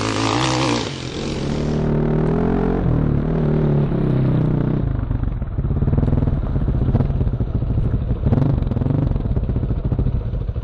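Sherco 4.5i dirt bike's single-cylinder four-stroke engine running, its pitch rising and falling for the first few seconds. About halfway through it settles into a low, fast, even pulsing beat.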